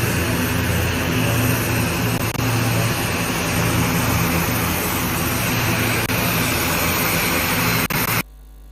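Parked aircraft's engines running on the tarmac: a loud, steady drone with a low hum, which cuts off suddenly near the end.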